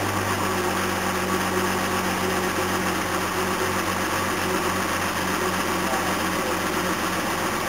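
1969 Jaguar XJ6's straight-six engine idling steadily just after a cold start, having sat unused for a few months.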